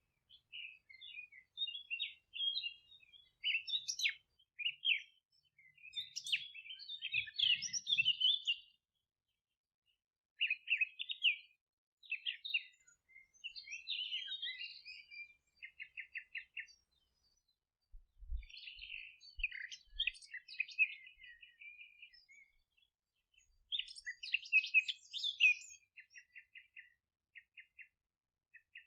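Several songbirds singing and chirping in overlapping phrases with short pauses between them. Some phrases end in quick, evenly spaced trills of repeated notes.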